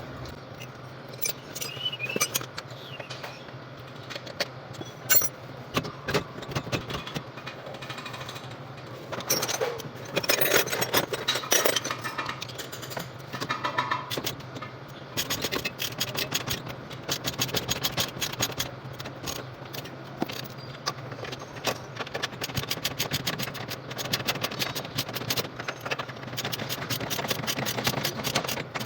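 Metallic clinking, scraping and rattling of hand tools and parts during brake work on a truck, over a steady low hum. From about halfway in, a fast run of clicks.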